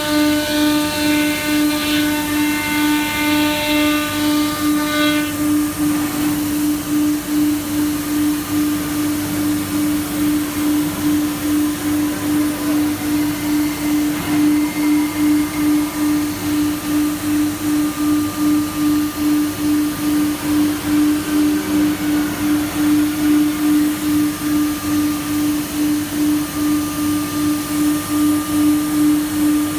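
Automatic tool changer CNC router running: a steady, loud hum that pulses about twice a second. For the first five seconds a higher, many-toned whine sits over it, then stops.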